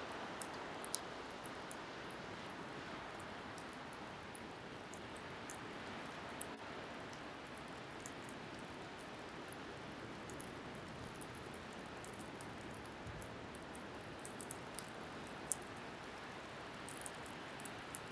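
Wood bonfire crackling with sparse sharp pops, over a steady rush of wind and waves.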